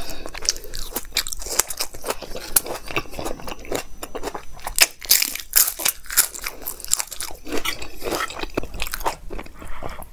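Close-miked eating sounds: a person chewing mouthfuls of dal, rice and paneer taken by hand, with crisp crunches and wet mouth clicks throughout.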